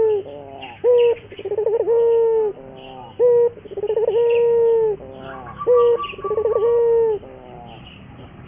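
Puter dove (Barbary dove) cooing repeatedly in its full 'gacor' song: each phrase is a short coo, a quick rolling run of notes and a long drawn-out coo that falls away at the end. The phrase comes about three times, roughly every two and a half seconds, with faint chirps of small birds behind it.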